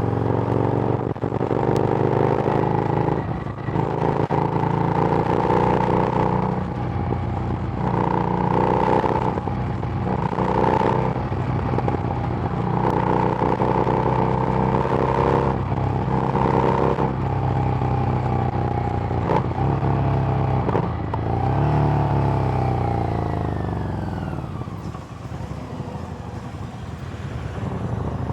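Harley-Davidson Street Rod's 750 cc V-twin running through a Screamin' Eagle exhaust while being ridden. The engine note repeatedly climbs and breaks off with the shifts, then falls away as the bike slows and picks up again near the end.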